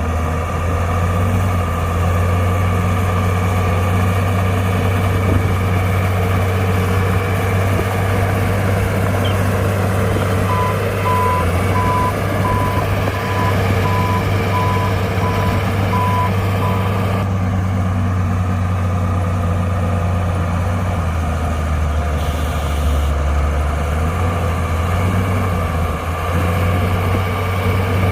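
Heavy diesel earthmoving machinery running steadily with a deep drone. In the middle, a reversing alarm beeps evenly about nine times over some six seconds, then stops.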